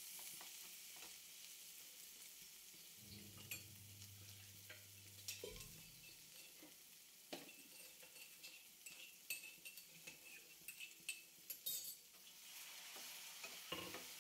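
Faint sizzling of onions and ground spices frying in a pan, with the spatula scraping and clicking against the pan as the masala is stirred. A little water has been added to the spice mixture to keep it from sticking and burning while it fries down.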